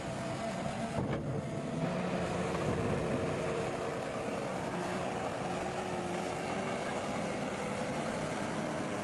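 Heavy construction machinery engine running steadily, with a faint click about a second in.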